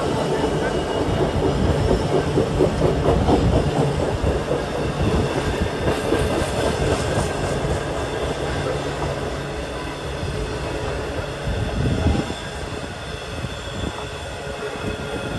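A train running past on the track, its wheels clattering over the rails. It is loudest a few seconds in and eases off later, with a single thump about twelve seconds in.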